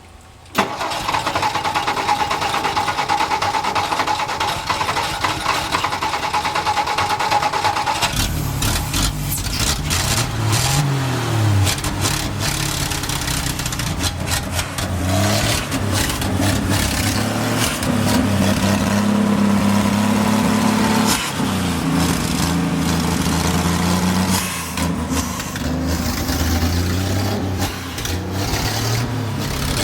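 1962 Ford F-350's engine being cranked by the starter for about eight seconds. It then catches and keeps running, its revs rising and falling as it is blipped.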